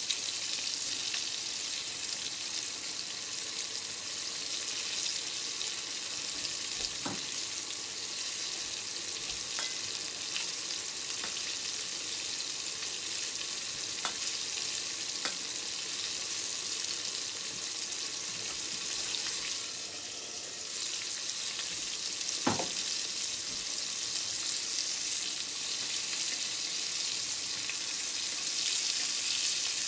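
Battered tempura pieces frying in shallow oil in a frying pan: a steady high crackling sizzle. A few faint clicks of chopsticks against the pan come through now and then.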